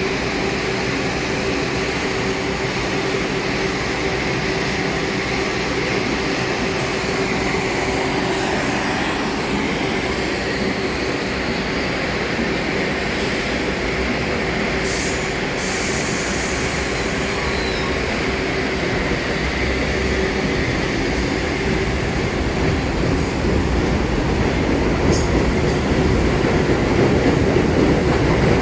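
New York City Subway (1) train running along the elevated Broadway–Seventh Avenue Line track: a continuous rail rumble with wheel noise and a few sharp clicks, growing louder over the last few seconds.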